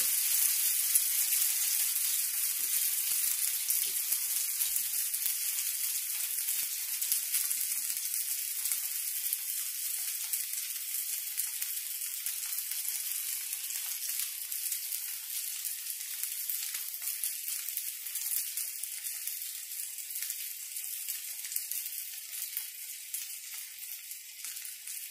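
Potato pancakes sizzling as they fry in shallow oil in a frying pan: a steady, high hiss that slowly grows quieter.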